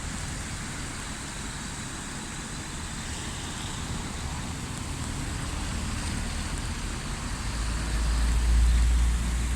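Steady rushing noise of the flooded Tâmega river in spate. A deep low rumble swells near the end, then eases.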